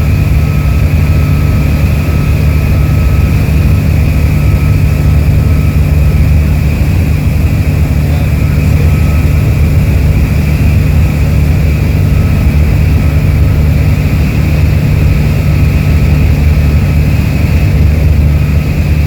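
Ultralight aircraft's engine and propeller running steadily at constant power, a loud, even drone.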